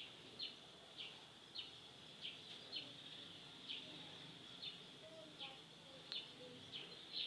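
A small bird chirping over and over, faint short high chirps coming irregularly, one or two a second.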